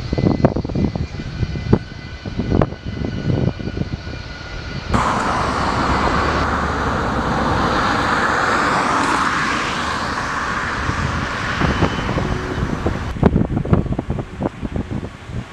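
Jet airliner engines: at first a steady whine under sharp, gusty knocks of wind on the microphone. About five seconds in, the sound switches abruptly to a louder, even jet roar with a slowly falling pitch as the plane passes. Near the end it switches back to the whine and wind knocks.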